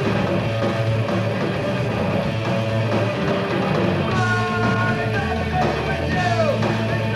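Live punk rock band playing a loud, fast song, with a singing voice coming in about four seconds in.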